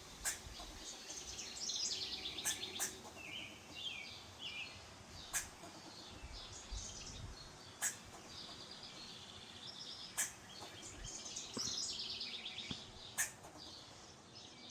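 Small birds chirping and twittering in quick trills, with short sharp clicks or calls every two to three seconds.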